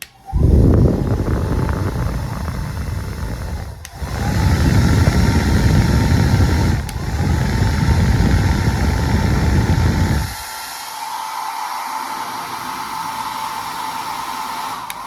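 Philips HP 8120 hair dryer running, its airflow rumbling heavily on the microphone over a steady fan whine, with two brief dips in the sound. About ten seconds in the low rumble drops away, leaving a thinner, quieter whine and hiss.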